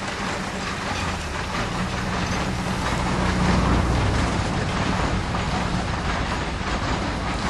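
Narrow-gauge train's carriages rolling past on the rails, a steady rumble that swells about three and a half seconds in and then eases as the train draws away.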